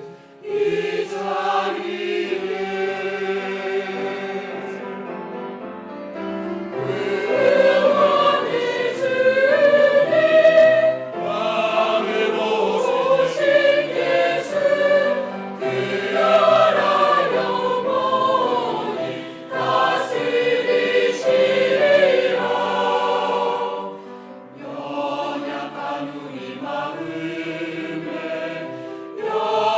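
Church choir singing a Christmas cantata in several voice parts, phrase by phrase, with short breaks between phrases.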